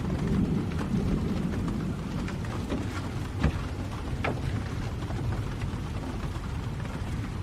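Steady rain with scattered close drops ticking, over a low rumble of thunder that is strongest in the first second or so. One sharper knock comes about three and a half seconds in.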